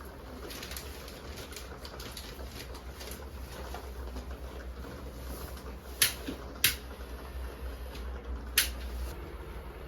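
Three sharp knocks or clicks over a low steady rumble: two about half a second apart, then one more two seconds later, with faint scattered ticks in between.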